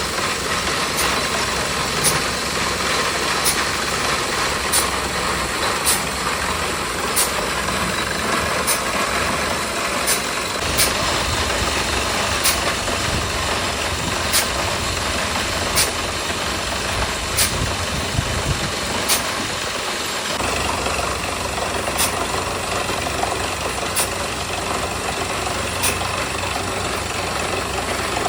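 Engine of a mini borewell drilling rig running steadily, with a sharp tick about every one and a half seconds.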